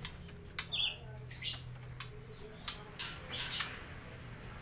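White-rumped shama (murai batu) calling in short, sharp high chirps and clicks at irregular intervals, with a thin steady high tone running underneath.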